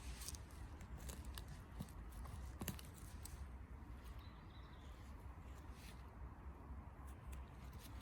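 Footsteps and handling in forest undergrowth: scattered light crackles and rustles of leaf litter and twigs over a steady low rumble.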